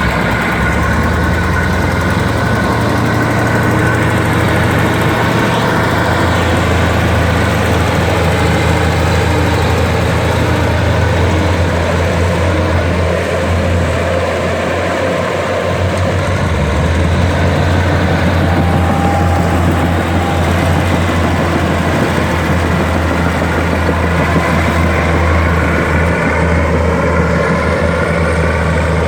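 Komatsu D60P bulldozer's diesel engine running steadily and loudly while working. The engine note dips for a few seconds around the middle, then picks up again.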